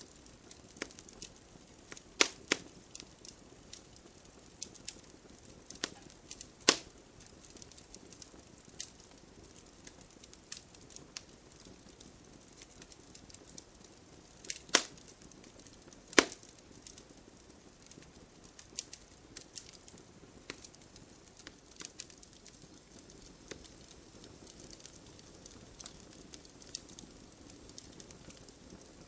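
Wood fire crackling: a soft steady hiss with scattered sharp crackles and a few loud pops of burning logs.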